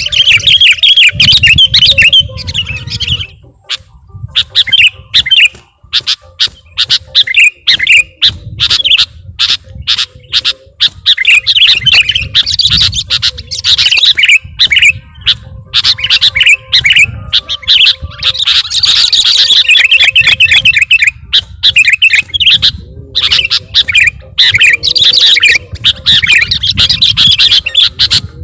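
Sooty-headed bulbul (kutilang) singing loudly: a varied, fast stream of chirps and trills with mimicked phrases of other birds mixed in. The song pauses briefly a few seconds in.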